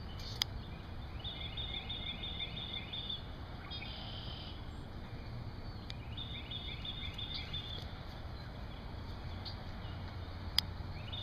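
Outdoor ambience of a steady low rumble, with a bird repeating a series of short high chirps, about three a second, in three spells of roughly two seconds each. Two sharp clicks, about half a second in and near the end.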